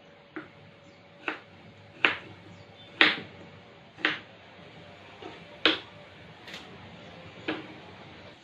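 Knife chopping vegetables on a cutting board: slow, uneven strokes, about one a second, around nine in all.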